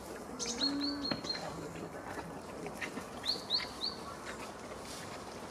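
A small songbird calling in the trees: a quick run of four short, high chirps about half a second in, then three more just after three seconds. Soft clicks and rustles sound underneath.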